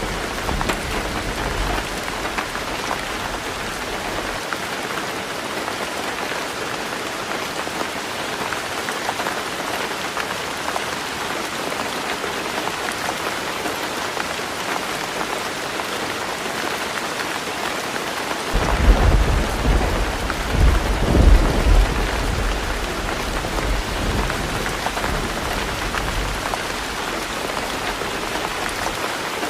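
Heavy rain drumming steadily on a tin roof. A fading rumble of thunder at the start dies out within a few seconds; about 18 seconds in, a loud low thunder roll begins, swells twice, then fades over several seconds.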